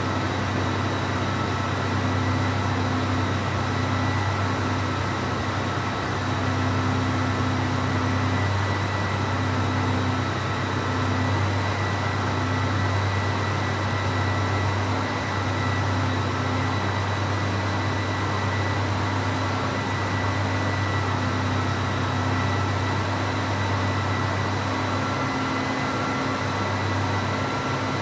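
Classic Cadillac V8 engine idling steadily, with a constant low hum.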